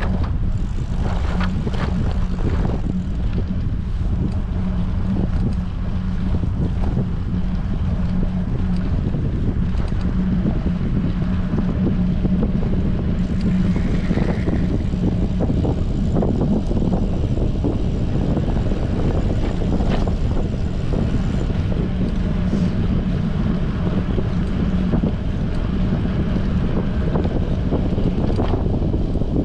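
Strong wind buffeting an action camera's microphone while cycling, a steady low rumble.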